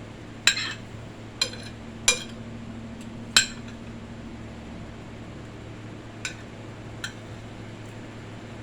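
Metal utensil clinking against a plate while eating: four sharp, ringing clinks in the first three and a half seconds, then two lighter ones a few seconds later, over a steady low hum.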